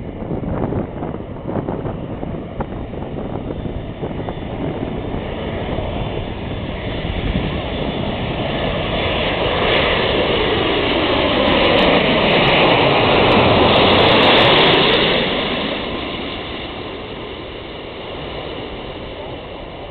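Boeing 747's four jet engines growing louder as the airliner comes in to land, loudest about 14 seconds in as it passes, then fading away, with a sweeping, phasing tone as it goes by.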